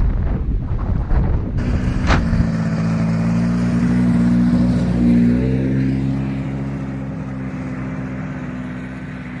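Wind buffeting the microphone, then a Yamaha Bravo snowmobile's two-stroke engine running steadily. Its pitch shifts briefly about five seconds in, and it slowly fades toward the end.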